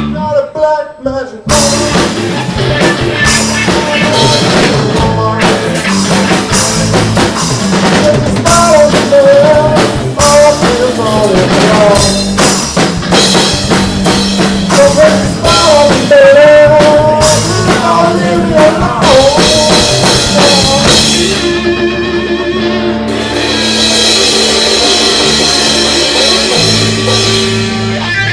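A live rock band playing loud: drum kit and electric guitar, with a melodic line weaving through the middle. The music breaks off briefly just after the start, and about 21 seconds in the drums drop out, leaving held, ringing guitar chords.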